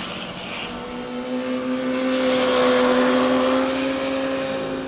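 A motorcycle riding past on a mountain road, its engine held at a steady note that grows louder to a peak about three seconds in and then fades.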